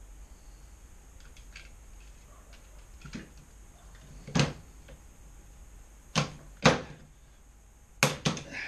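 Sharp knocks and clacks of hand tools on the metal parts of a motorcycle exhaust can: one about four seconds in, a pair a second or two later, and two more in quick succession near the end.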